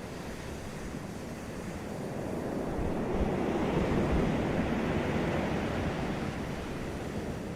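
Sea waves on a beach: one wave swells in, peaks a few seconds in, and slowly washes back out, with a low rumble of surf underneath.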